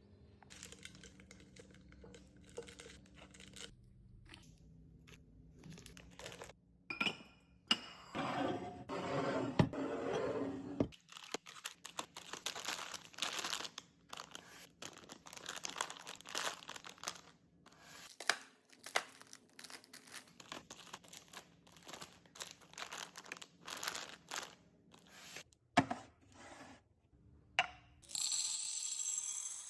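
Plastic snack packaging crinkling and tearing, with many light clicks and taps as items are handled and set in place. A longer stretch of rustling comes about eight seconds in, and a scraping sound near the end.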